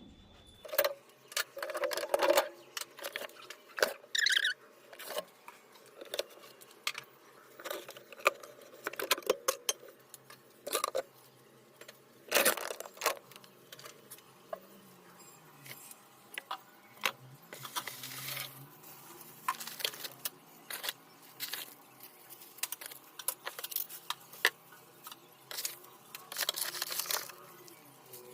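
Irregular clicks, knocks and clatter of plastic containers, jars and dishes being lifted out of a switched-off refrigerator and set down, with some rustling.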